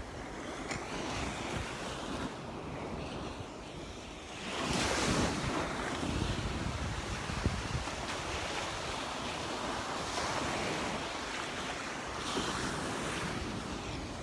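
Gulf of Mexico surf washing onto the beach, with wind rumbling on the microphone. A wave breaks and swells louder about four and a half seconds in, and another smaller one comes near the end.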